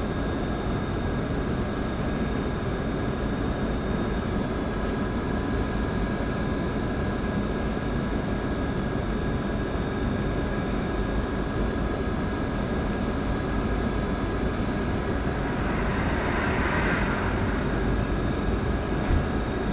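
Steady cabin noise of a Scania K410IB coach underway: continuous engine and road rumble. A hissing swell rises and fades about sixteen seconds in.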